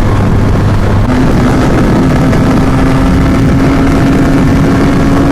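Benelli TNT 300's parallel-twin engine running under way, with wind noise over the microphone. Its note steps up about a second in and then holds steady.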